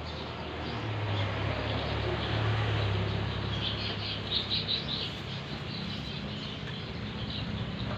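Birds chirping in short high bursts around the middle, over a steady low hum and background noise.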